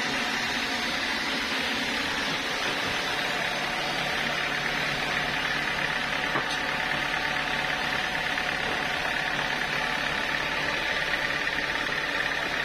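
Sawmill saw machinery running steadily, a constant mechanical drone with a faint steady whine that strengthens a little about halfway through.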